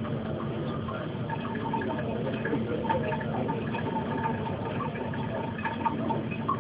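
Lump of sodium metal fizzing on water, a steady crackly hiss; the reaction is not hot enough to ignite the hydrogen it gives off.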